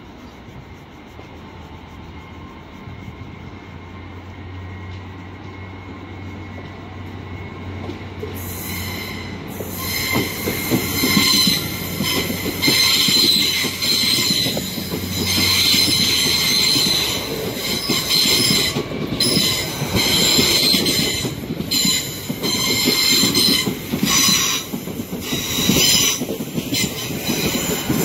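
A GWR Hitachi Intercity Express Train (Class 800-series) approaching and running past along the platform; its sound builds steadily over the first eight seconds. From about nine seconds the wheels give a high, ringing squeal over the rumble of the passing carriages, breaking off briefly now and then.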